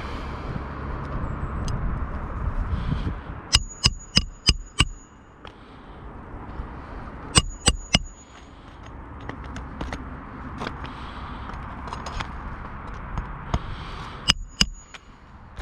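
Quick runs of sharp, ringing clicks: five in about a second, then three, then three more near the end, over a steady rush of outdoor noise.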